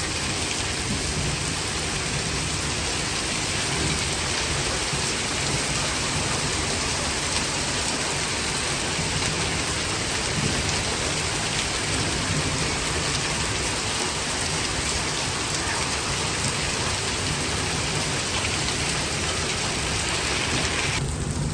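Heavy rain mixed with hail pelting down in a steady, dense hiss, with thunder rumbling low underneath.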